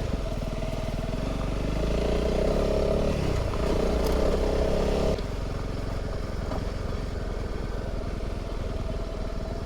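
Honda CRF300 Rally's single-cylinder engine running while riding, the revs rising and falling, then the sound falls off suddenly about halfway through and runs on more quietly.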